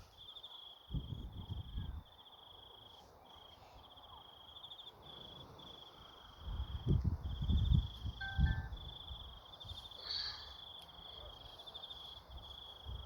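Crickets trilling steadily in a high, finely pulsed chirp that breaks off and resumes every second or so. Low rumbles on the microphone come about a second in and again from about six to nine seconds in.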